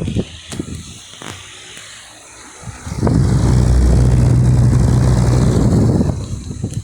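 Ventisol VOP 50 200 W wall fan running, its airflow buffeting the microphone as a loud, steady rumble from about three seconds in, easing off near the end.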